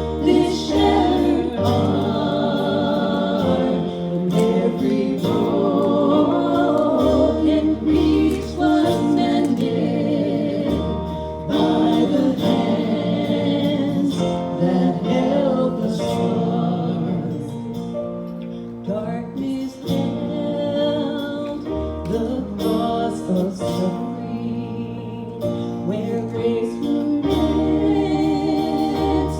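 Live gospel worship song: voices sing a slow melody over instrumental accompaniment, with sustained bass notes that change every few seconds.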